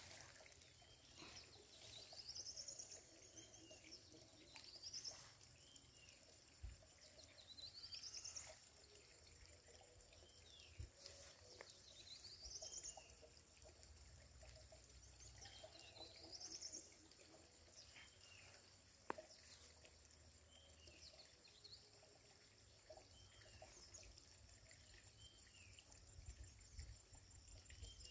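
Faint outdoor quiet with a bird repeating a short sweeping call every few seconds, the calls growing fainter in the second half, over a steady high thin whine.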